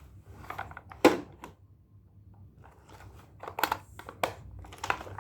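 Hard plastic clicks and knocks from a Hot Wheels toy car-carrier truck being handled and its parts worked open. One sharp click about a second in, and a cluster of further clicks near the end.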